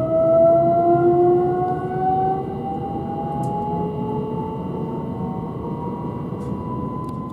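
Heard from inside a passenger train as it accelerates: the traction motors whine in several tones that rise slowly and steadily in pitch, over low running noise.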